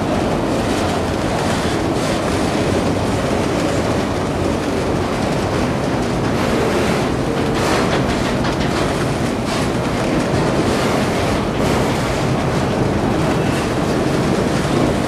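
Enclosed autorack freight cars of a Norfolk Southern auto train rolling past at close range: a steady rumble of steel wheels on rail, with a few clacks over the rail joints.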